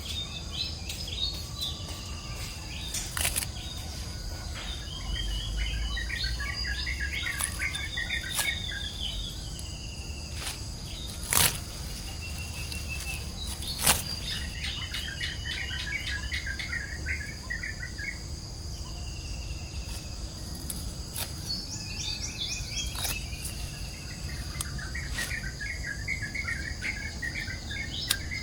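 A bird singing in bouts of repeated trilling phrases over a steady high-pitched insect chorus, with a few sharp clicks, the loudest about halfway through.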